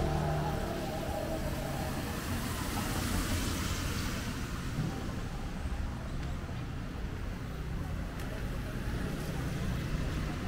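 Street traffic: a low, steady engine hum, with the hiss of a vehicle swelling and fading as it passes a few seconds in.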